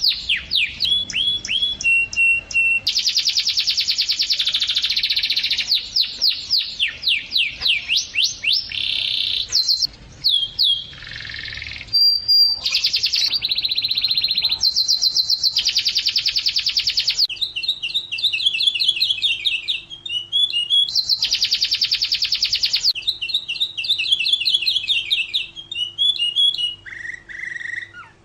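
Domestic canary singing a long unbroken song: rapid trills and runs of quickly repeated high notes, each phrase shifting to a new trill every second or two. A faint steady hum lies underneath in the second half.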